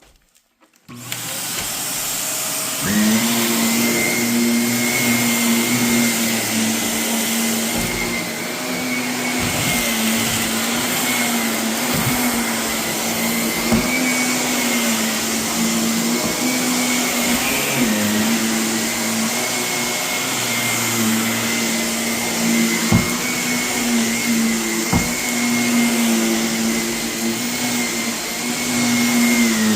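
Vacuum cleaner switched on about a second in and running steadily over carpet, with a steady motor hum, picking up gritty renovation debris that crunches and ticks now and then as it is sucked up.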